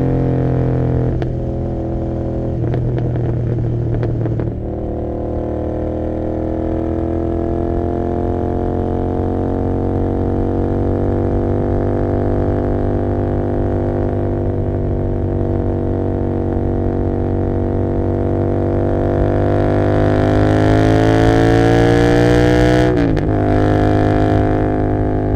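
Royal Enfield Continental GT 650's parallel-twin engine through Emgo cafe mufflers with the dB killers removed, with the bike under way. The exhaust note dips in the first few seconds, climbs slowly for most of the time as the bike accelerates, and drops sharply near the end at a gear change.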